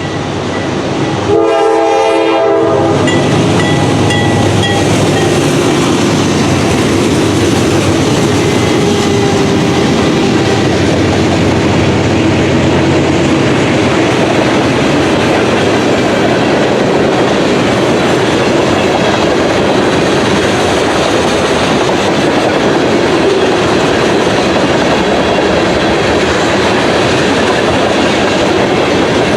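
A diesel locomotive horn sounds one short blast about a second in. The train then runs close by, its wheels and cars making a loud, steady rumble on the rails.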